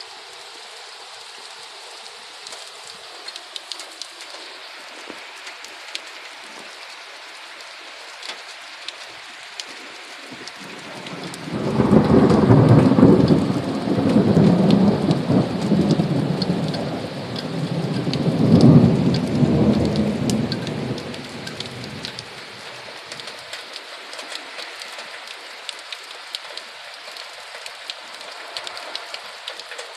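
Steady rain falling, with scattered sharp drop ticks. About eleven seconds in, a long roll of thunder builds, swells twice and dies away over some ten seconds, leaving the rain alone again.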